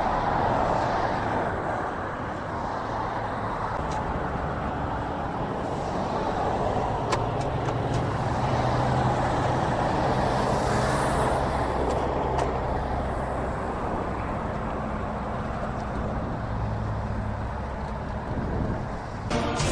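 Steady road-vehicle noise, like passing traffic or an engine running, with a low hum through the middle and a few faint clicks.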